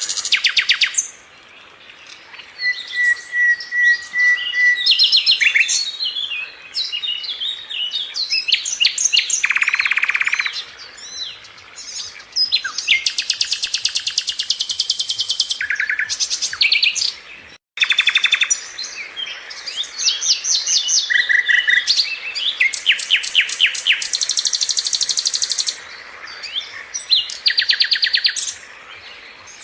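Sikatan londo flycatcher singing a fast, varied song of rapid rattling trills, buzzy chatters and short whistled notes, with a brief break just before the middle.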